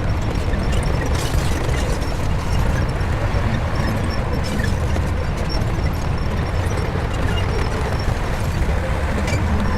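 Shantui crawler bulldozer's diesel engine running steadily at working load, a deep, even drone with a few faint knocks.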